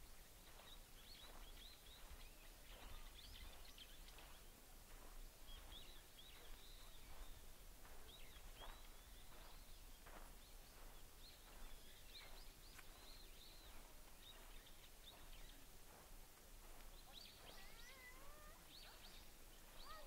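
Faint birdsong: small birds chirping in short high calls throughout, with a wavering call near the end, over a low steady rumble.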